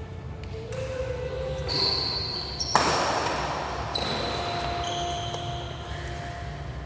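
Sports shoes squeaking on an indoor court floor as players move, with one sharp racket hit on the shuttlecock nearly three seconds in.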